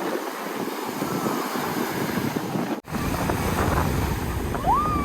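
Steady rushing wind noise on the microphone, broken off abruptly about three seconds in and resuming with more low rumble. A short high pitched tone comes in near the end.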